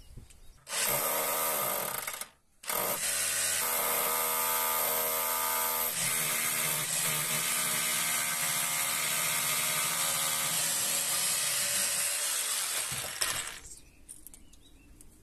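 SDS power drill boring holes through wooden shelf boards. It starts about a second in, stops briefly, then runs steadily for about ten seconds before winding down.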